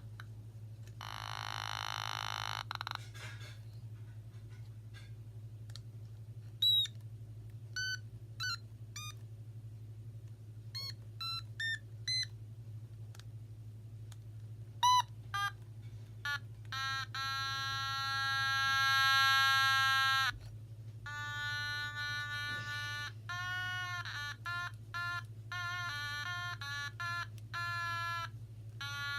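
Otamatone played in short, buzzy electronic notes and blips, several of them bending in pitch, with longer held notes: one about a second in, and one about seventeen seconds in that holds for some three seconds. A steady low hum runs underneath.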